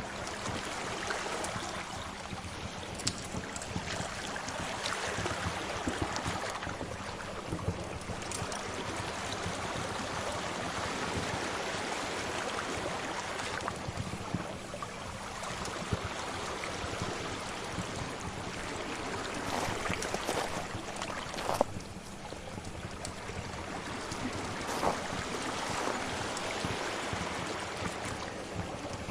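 Sea waves washing in slow swells, with a wood fire crackling over them in scattered sharp pops; one pop, about three-quarters of the way through, is the loudest.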